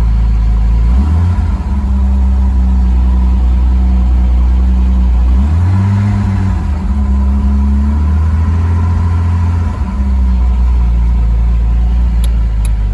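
1961 Jaguar E-Type's 3.8-litre straight-six running just after a cold start, on the choke. The engine speed shifts up and down a few times as it warms.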